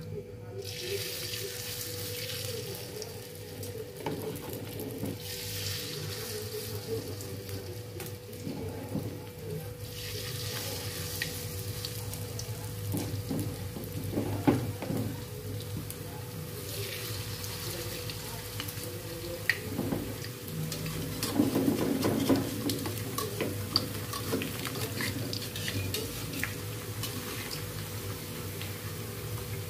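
Bakwan vegetable-fritter batter deep-frying in hot oil in a metal wok, the sizzle swelling and fading in stretches as spoonfuls of batter go in. A spoon scrapes and taps against the wok now and then.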